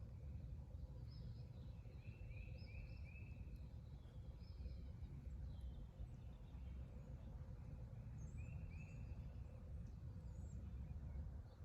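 Woodland songbirds calling: short chirps in quick runs of three or four, with scattered higher notes, over a steady low rumble.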